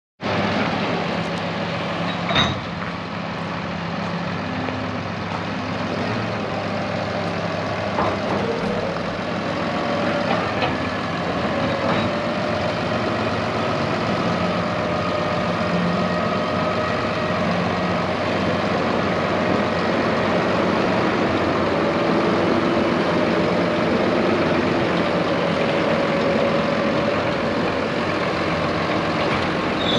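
Case IH Magnum 180 tractor's six-cylinder diesel engine running steadily, with a sharp knock about two seconds in and a few lighter clicks later.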